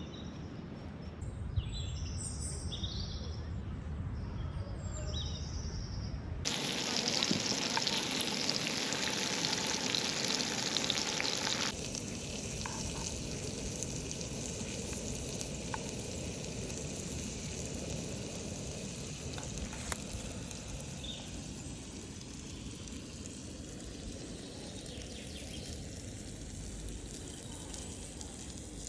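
A few bird chirps over a low rumble, then sucuk frying in a pan. The sizzle is steady and loudest from about six seconds in, and turns quieter from about twelve seconds in.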